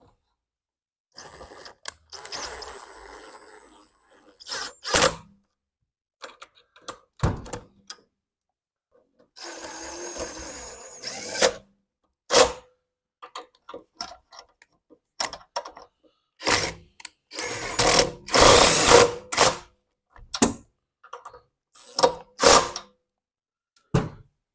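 Intermittent tool work on a lawn mower engine: several short runs of a small power drill or driver, with clicks, knocks and the clatter of metal parts and tools in between.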